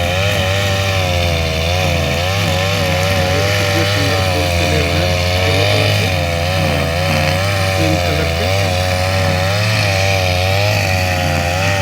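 Backpack brush cutter's small engine running steadily while cutting grass, its pitch wavering slightly up and down.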